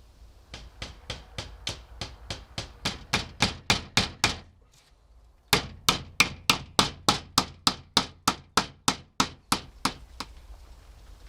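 Hammer blows, about three a second, in two runs with a short pause between them. The first run starts light and grows heavier; the second keeps up steady, hard strokes.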